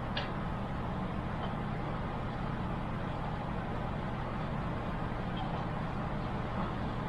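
Steady low hum and hiss of background noise, with a couple of faint clicks at the very start.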